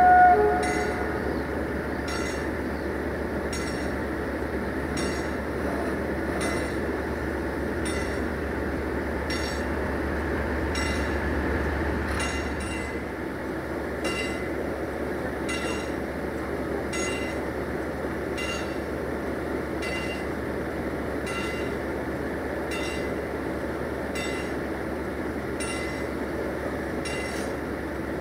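A train horn sounds one short blast, then the steady rolling noise of a moving train, with wheels clicking regularly over rail joints about every two-thirds of a second.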